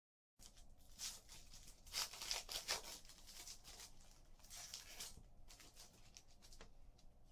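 Trading card pack wrapper being torn open and crinkled. The loudest rips come from about one to three seconds in, with another burst near five seconds. The clip opens with a brief moment of dead silence at an edit cut.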